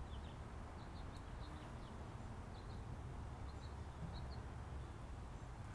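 Faint outdoor ambience: small birds giving short, high chirps scattered throughout, over a steady low rumble.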